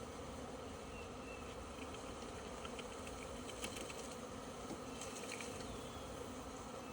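A honeybee swarm buzzing, a steady hum, with light scattered ticks through the middle.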